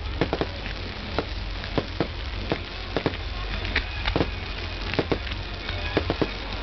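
Bonfire burning, crackling with sharp irregular pops, several a second, over a steady low rumble.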